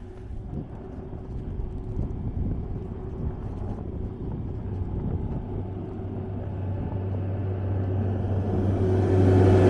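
Engine of a small snow plow vehicle approaching: a low steady hum that grows louder, strongest near the end.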